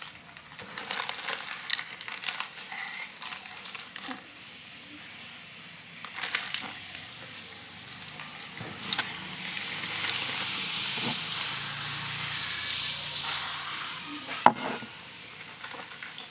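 Crispy fried noodle snack (mie kremes) being eaten: scattered crackling crunches, then a few seconds of steady crackly rustle, and one sharp crack near the end.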